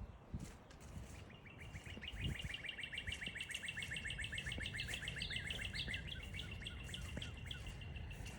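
A bird trilling: a long, fast run of repeated chirps, about ten a second, starting about a second in and lasting some seven seconds, over low wind noise.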